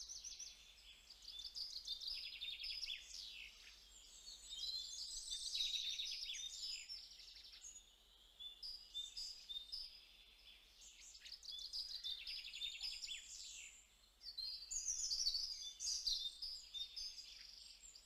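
Faint birdsong: several small birds chirping and trilling, high-pitched, in bouts of a few seconds with short pauses between.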